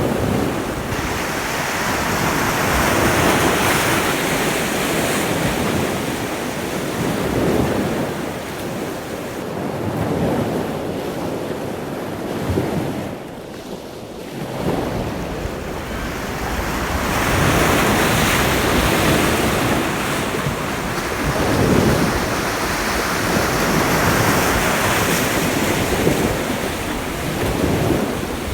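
Ocean surf breaking and washing up the beach in repeated surges, with a brief lull about halfway through. Wind rumbles on the microphone.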